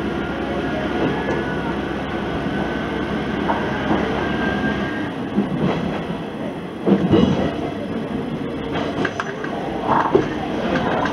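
Diesel railcar running along the line: a steady engine and rolling sound whose low rumble drops away about halfway through. The wheels clatter over rail joints and points, loudest about seven and ten seconds in.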